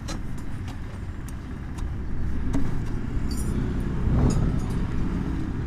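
Steady low rumble of a motor vehicle engine, with a few light metallic clicks and taps from work on a motorcycle exhaust pipe.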